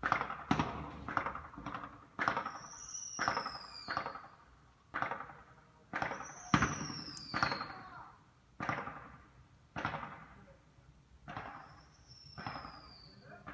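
Fireworks going off in a rapid series of sharp bangs, roughly one a second. A high whistle falls in pitch three times among them.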